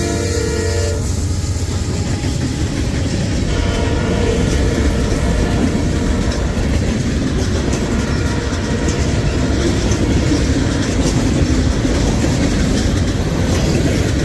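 CSX freight train passing close by. A horn blast ends about a second in, then the train runs by with a steady rumble and clatter of its wheels on the rails.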